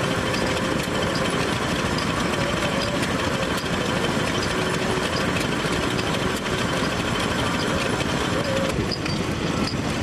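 Engine running steadily at an even pace, with a dense, rough rumble.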